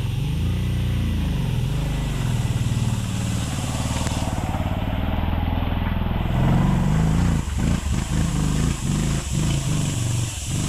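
Motorcycle engine running at low speed on a rough dirt track, its pitch rising and falling as the throttle is worked, with irregular knocks over the last few seconds.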